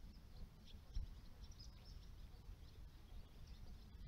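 Faint, scattered chirping of small birds over a low background rumble, with one soft low bump about a second in.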